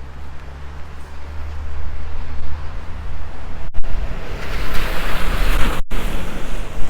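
A motor vehicle's engine hums low and steady. Then, from about four and a half seconds in, the tyres hiss through wet slush as it passes, swelling and fading.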